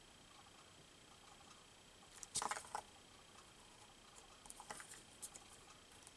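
Paper and small craft tools being handled: a short burst of rustling and clicks a little over two seconds in, then a few light ticks.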